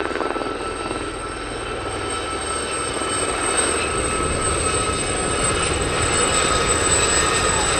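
Aérospatiale Gazelle helicopters in flight: the Gazelle's distinctive high, steady whine from its turbine and Fenestron ducted tail fan over a rumble of rotor and engine noise, growing gradually louder as they come closer.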